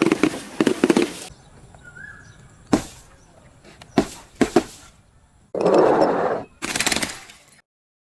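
Objects being crushed and broken: a quick run of crackling crunches, then a few separate sharp cracks, a rushing burst about a second long, and another crackling crunch that cuts off abruptly.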